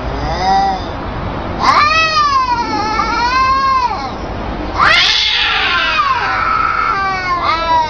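Domestic cats caterwauling: a short call, then long, drawn-out yowls that rise and fall in pitch, one after another, with a new one starting near the end.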